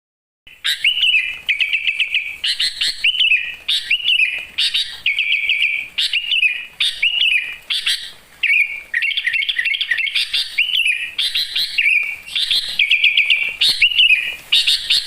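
A songbird singing a fast, varied song of repeated chirps and rapid trills, phrase after phrase with only brief gaps; it cuts off abruptly at the end.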